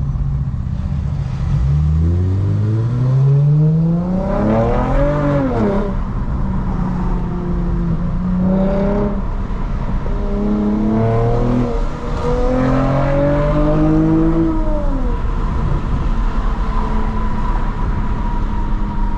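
Lexus IS350's 3.5-litre V6 accelerating through the gears with a straight-through exhaust that has no secondary cats and no muffler. The engine note rises steeply, drops at each upshift and climbs again, about three times. It then settles to a steady cruise for the last few seconds.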